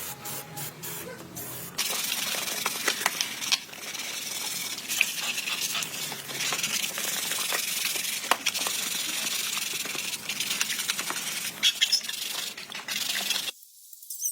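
A steady, high spraying hiss with scattered ticks, starting about two seconds in and cutting off suddenly near the end.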